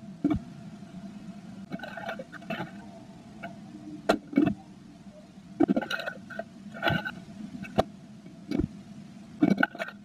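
Blue tit moving about inside a wooden nest box, making irregular knocks, taps and short scratchy rustles against the box as it works on the nest. A steady low electrical hum runs underneath.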